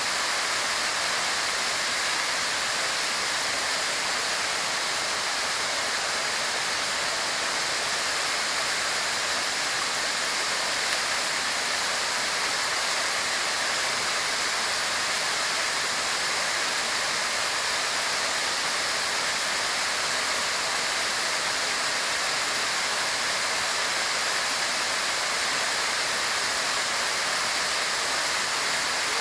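A waterfall rushing: a steady, unbroken hiss of falling water.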